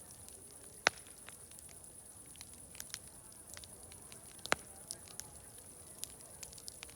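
Wood fire crackling, with two sharp loud pops, about a second in and about halfway through, among scattered smaller crackles over a steady high hiss.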